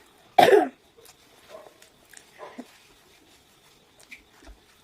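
A person coughing once, loudly and briefly, about half a second in, followed by a few faint clicks.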